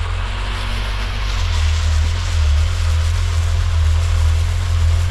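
A vehicle being driven, its engine a steady low rumble with an even hiss above it.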